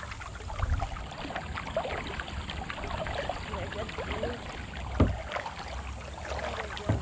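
Kayak paddling: water splashing and dripping from the paddle blades, with two sharp knocks, about five seconds in and at the very end.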